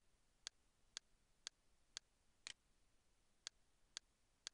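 Faint, evenly spaced ticks, about two a second, over near silence. Twice there is a double tick followed by a skipped beat.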